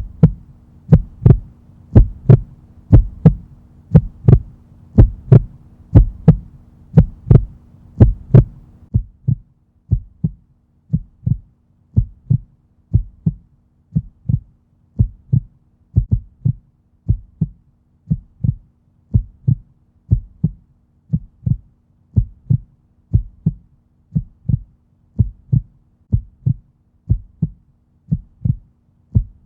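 A steady, low, thumping beat, about two thumps a second, over a faint hum. About nine seconds in, the thumps turn quieter and softer and part of the hum drops out.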